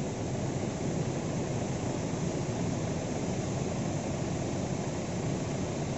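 Steady rush of falling water, an even roar with no breaks.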